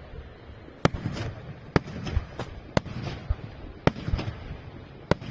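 Aerial fireworks shells bursting with sharp bangs about once a second, each followed by echoing rumble and crackle.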